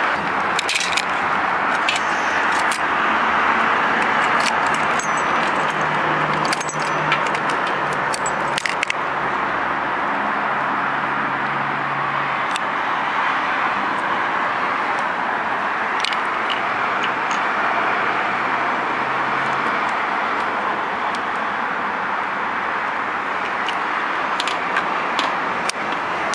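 Keys jangling with scattered sharp clicks over a steady hiss, as a motorcycle is readied to start; the engine does not start, since the kill switch is engaged.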